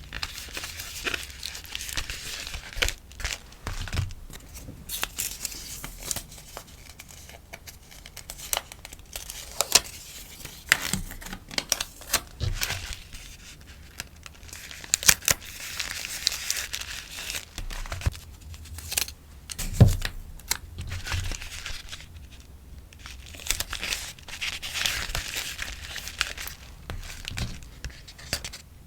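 Rustling and crinkling of plastic sleeves and paper as stickers are packed, coming in waves, with many light taps and clicks; the sharpest knock is about two-thirds of the way in.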